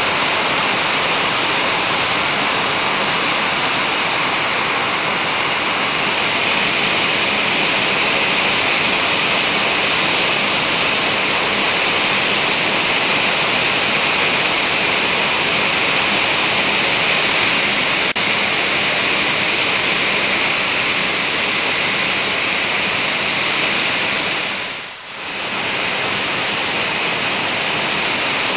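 Alpha Jet turbofan engines running with a steady high whine over a loud rush. The sound dips briefly near the end and then returns.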